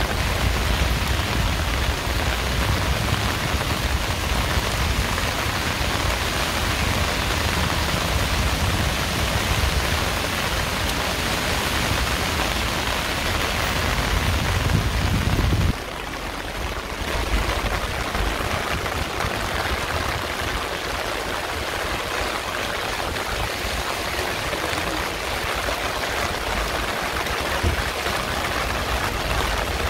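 Heavy downpour of rain, a steady dense hiss of drops on hard surfaces. About halfway through a low rumble under it cuts off suddenly, leaving the rain a little quieter and thinner.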